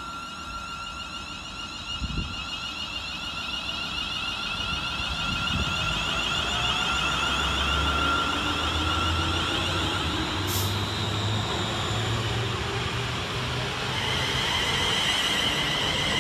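Class 350 Desiro electric multiple unit pulling away from the platform, its traction motors whining with tones that rise in steps as it gathers speed, growing louder.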